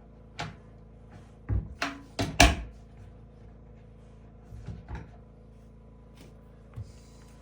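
Wooden cabinet doors knocking and clapping shut as they are handled: a quick cluster of sharp knocks a second or two in, the loudest about two and a half seconds in, then a few lighter taps.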